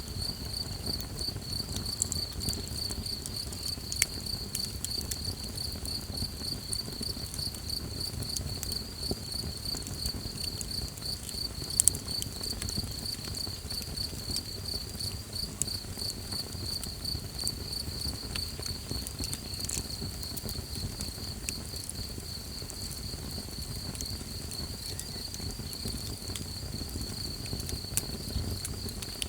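Crickets chirping in a steady, fast, evenly pulsing high trill. A campfire crackles underneath, with scattered sharp pops, the loudest about twelve seconds in.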